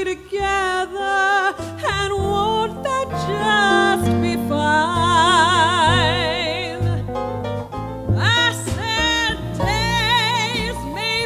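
Live jazz combo of bass, guitar, piano and drums backing a female singer's wordless held notes with wide vibrato, including one long wavering note in the middle.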